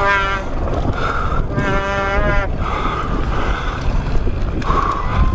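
Heavy low rumble and wind buffeting the microphone during a mountain bike descent, with two long, level held calls, one at the start and one about two seconds in.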